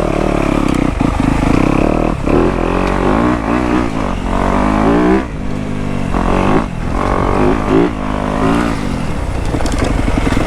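Dirt bike engine running, revved up and down several times in short throttle bursts over a steady low running note.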